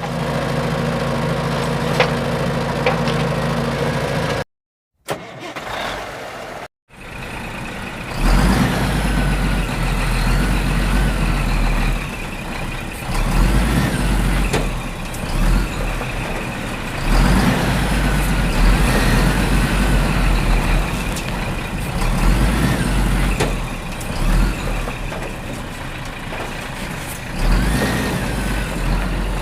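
Truck engine running with a heavy low rumble, its pitch rising and falling every couple of seconds as if being revved. Two brief cut-outs come in the first seven seconds, and the rumble grows much stronger from about eight seconds in.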